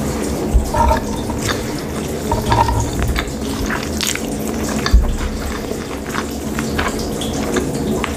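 Close-miked chewing and eating of a sushi roll: many wet mouth clicks and smacks, over a low steady hum.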